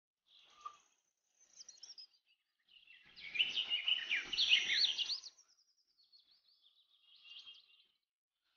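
Birds chirping and twittering: scattered short high calls, then a dense run of quick rising and falling chirps in the middle that is the loudest part, then a few more chirps near the end.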